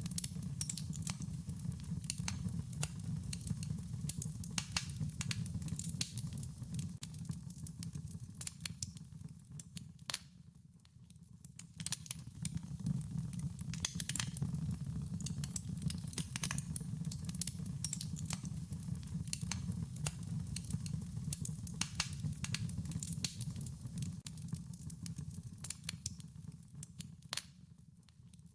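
Wood fire crackling, with frequent sharp irregular pops and snaps over a low steady rumble. It fades down briefly about ten seconds in and again near the end.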